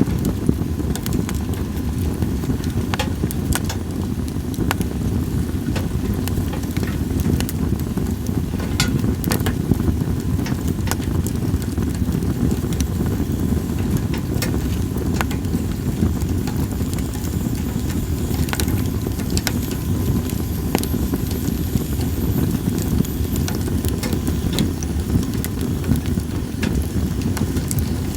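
Campfire of split sawtooth oak (kunugi) logs crackling, with scattered sharp pops over a steady low rumble. A faint high whistle of steam escaping from the wood rises slightly for a few seconds about two-thirds of the way through.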